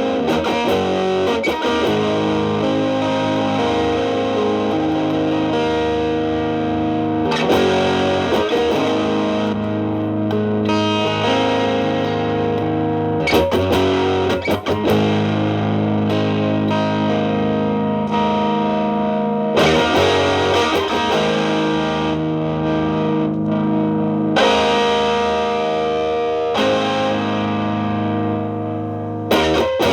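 Electric guitar (Telecaster) played through an MXR Distortion+ stacked into a Boss SD-1 overdrive and a Marshall Valvestate amp's clean channel: distorted chords struck every few seconds and left to ring out.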